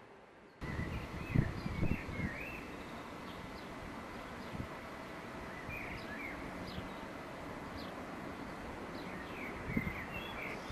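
Small birds chirping, short squeaky calls coming in clusters over steady outdoor background noise, with a few low thumps about a second or two in.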